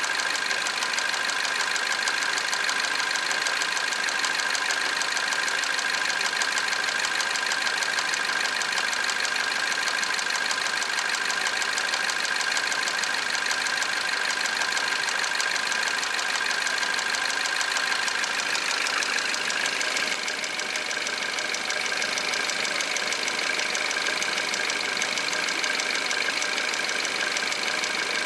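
Peugeot 408's 1.6 THP turbo petrol engine idling cold, with a steady mechanical running noise that the owner suspects may come from the timing chain. About twenty seconds in, its sound shifts slightly and gets a little quieter.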